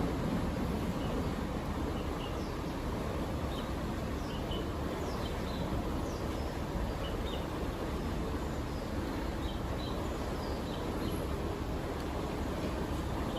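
Small birds chirping, many short high calls scattered throughout, over a steady low rushing background noise.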